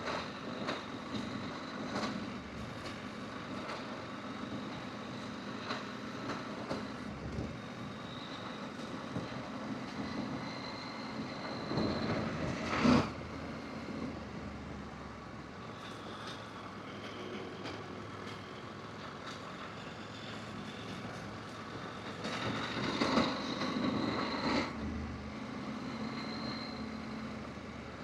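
Adventure motorcycle being ridden along a rough dirt forest track, its engine running steadily. Short knocks and rattles come from the bumps throughout, and the sound swells twice, briefly about halfway through and again for a couple of seconds later on.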